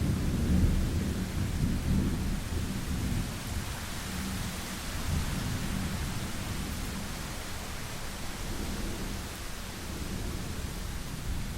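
Thunderstorm: steady rain falling, with a low rumble of thunder that is loudest in the first two seconds and then eases off.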